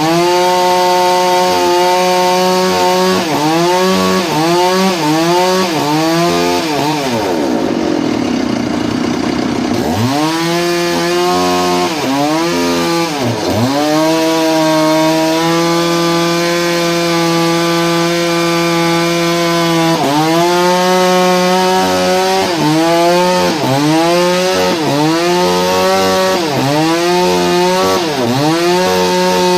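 Engine-driven saw cutting wood: its engine note repeatedly sags under load and climbs back, over a steady lower hum.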